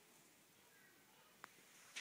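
Near silence: faint room tone, with one small click about one and a half seconds in.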